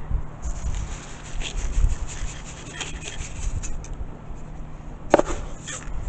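Rubbing and rustling handling noise as bird feed is topped up, with one sharp knock about five seconds in.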